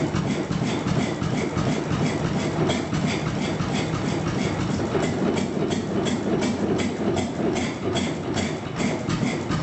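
Old R. Hornsby stationary petrol engine running with an even, rhythmic beat of about four strokes a second.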